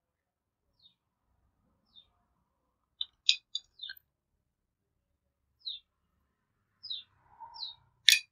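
A small bird chirping repeatedly: short, high chirps that fall in pitch, several in quick succession about three seconds in and again near the end. A single sharp click comes just before the end.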